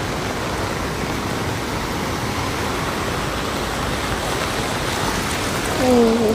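Steady hiss of heavy rain and running floodwater in a downpour. A brief pitched sound, slightly falling, cuts in near the end and is the loudest moment.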